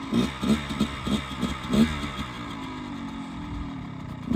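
Dirt bike engine revving in about six quick short bursts over the first two seconds, then running on at a steady lower note that slowly sinks in pitch.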